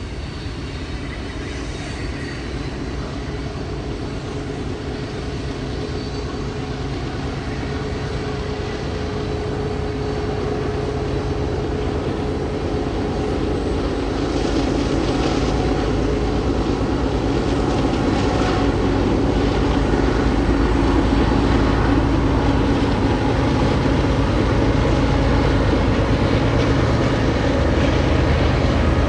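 Diesel locomotives of a freight train running with a steady engine drone, growing louder as they approach.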